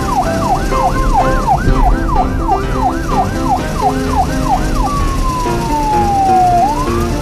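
Police siren sound effect wailing in quick up-and-down sweeps, a little over two a second. About five seconds in it changes to one long falling tone, then rises again.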